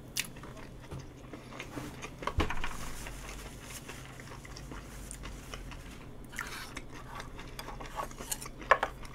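Close-up eating sounds of a person chewing a mouthful of nakgopsae, rice mixed with spicy octopus, beef intestine and shrimp. A few sharp clicks come in between, the loudest about two and a half seconds in and another near the end.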